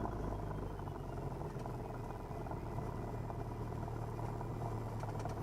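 1977 Cessna 172N's four-cylinder Lycoming piston engine and propeller running steadily with a low drone.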